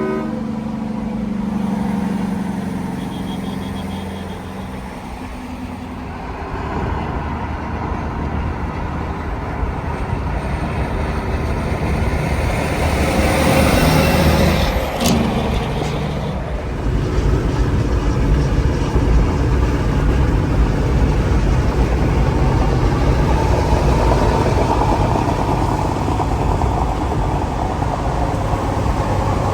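Road traffic: a heavy vehicle's engine rumbles and swells as it passes close about halfway through, with a sharp click at its loudest, then a steady low engine drone.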